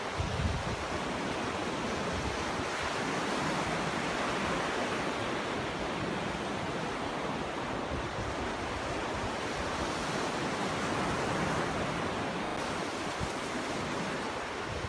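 Ocean surf washing onto a beach: a steady rushing wash of breaking waves that swells and eases slowly, with low wind buffeting on the microphone near the start.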